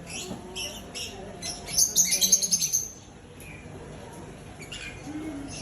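Lovebirds chirping: a string of short, high chirps, breaking into a loud burst of rapid chattering about two seconds in that lasts about a second, then a few scattered chirps.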